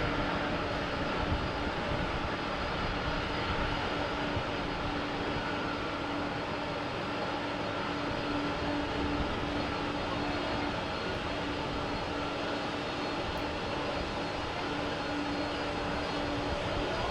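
Jet airliner engines running steadily: a constant rush of noise with a steady low hum under it.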